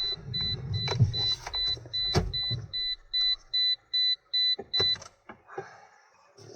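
Toyota Verso's warning beeper pulsing steadily, about three high beeps a second, then stopping about five seconds in. A low rumble runs under it in the first half, with a couple of sharp knocks.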